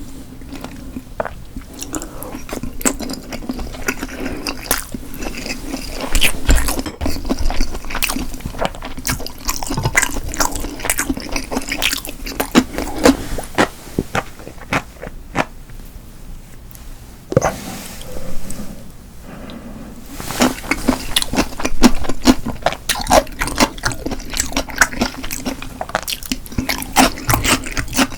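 Close-miked wet eating sounds: chewing and mouth clicks, with watery, liquid-sounding bits, over a steady low hum. The clicks thin out for a few seconds midway, then come thick again.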